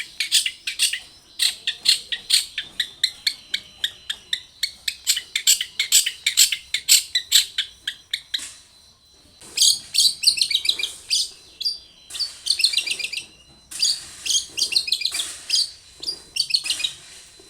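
Long-tailed shrike (cendet) song: a fast run of sharp, high repeated notes, about three or four a second, for the first eight seconds or so. After a short pause come bursts of rapid, busy chattering phrases, with brief gaps between them.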